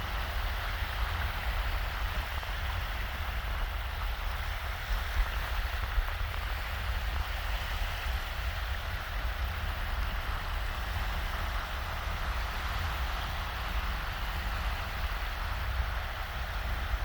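Shallow waves washing steadily onto a sandy beach, with a constant low wind rumble underneath.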